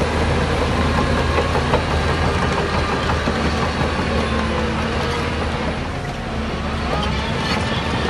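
Heavy diesel engine of earthmoving machinery running steadily, with one sharp knock a little under two seconds in and a brief dip in loudness around six seconds in.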